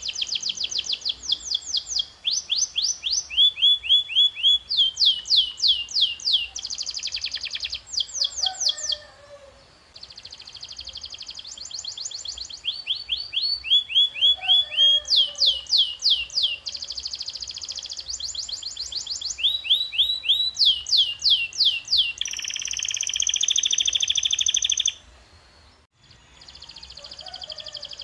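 A canary singing a long, loud song of rapid trills. Each run repeats one quick falling note many times before switching to a new note, with a buzzier stretch a few seconds before the end. The song breaks off briefly twice.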